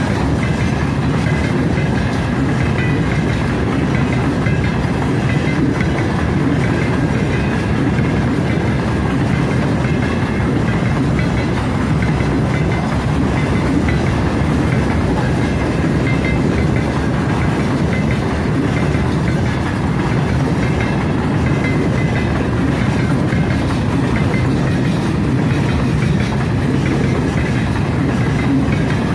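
Freight train's open gondola wagons rolling past, a steady rumble of steel wheels on the rails.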